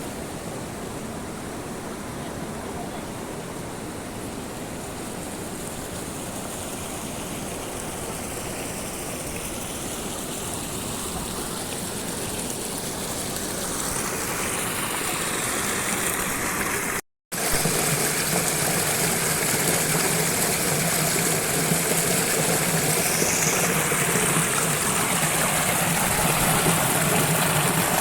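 Steady rush of a waterfall and fast-flowing river water, growing louder in the middle. It breaks off for a split second about 17 seconds in, then carries on louder and fuller.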